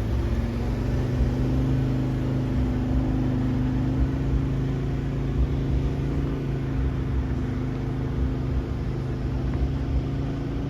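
4WD engine running at a steady speed while driving an off-road track: a constant low drone over uneven rumbling from the vehicle on the rough ground.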